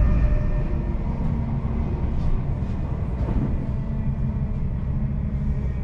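Cabin running noise of a Class 745 Stadler FLIRT electric multiple unit travelling at speed: a steady low rumble from wheels and track with a steady low hum, and a few faint clicks midway.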